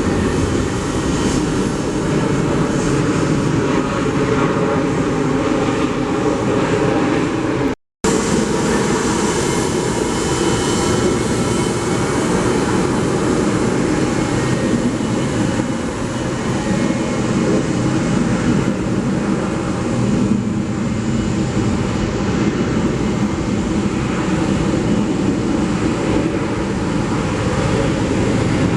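Airliner engines running, a steady loud rumble with no sharp events. It breaks off for an instant about eight seconds in and resumes just as before.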